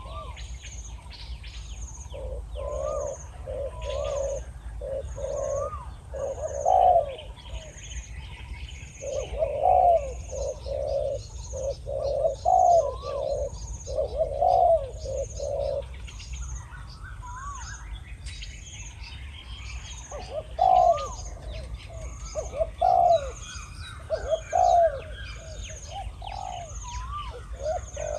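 Spotted doves cooing in repeated deep phrases, pausing briefly twice, under a high chirp that repeats about once a second.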